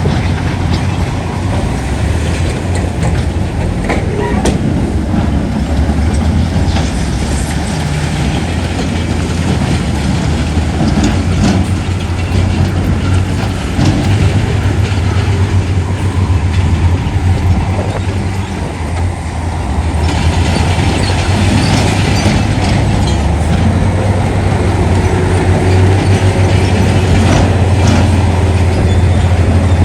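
Heavy earthmoving machinery at work: diesel engines running with a steady low drone and scattered metallic clanks and rattles, as from crawler tracks.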